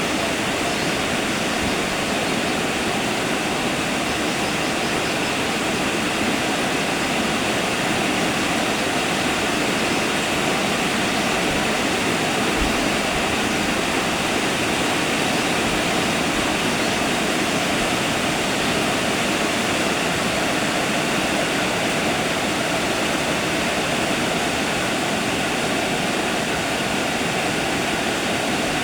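Rain falling steadily, an even hiss of water with no breaks.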